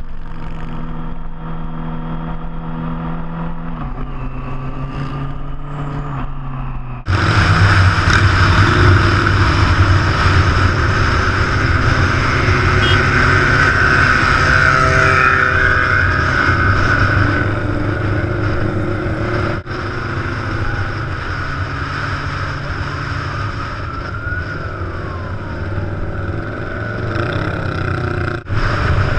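A big motorcycle's engine running steadily on the move. About seven seconds in, the engine and road noise turn suddenly louder, with brief drops near twenty seconds and just before the end.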